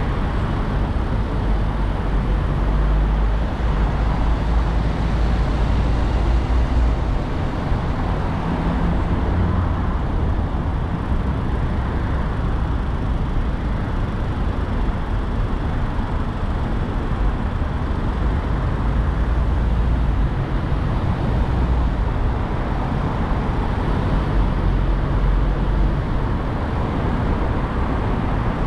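A car driving through city traffic: steady road and engine noise with a heavy low rumble that swells and eases every few seconds.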